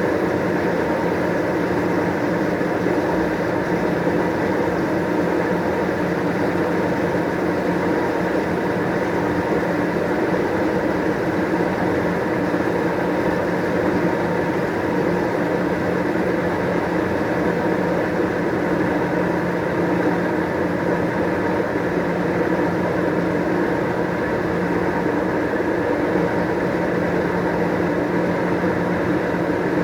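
White-Westinghouse washing machine spinning, its motor and drum running at a steady speed with an even hum.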